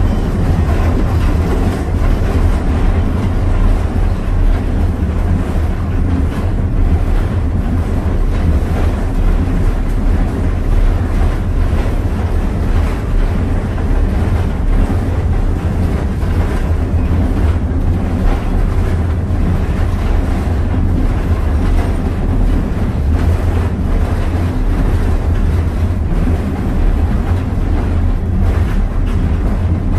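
Steady, loud rumble of a train under way, recorded from on board a passenger train pulled by steam locomotive No. 2023.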